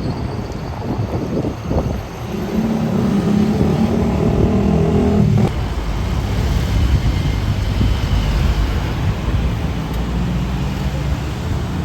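Road traffic: motor vehicles passing close by, with one loud engine whose steady note runs for about three seconds and breaks off sharply about five seconds in, under a continuous traffic rumble.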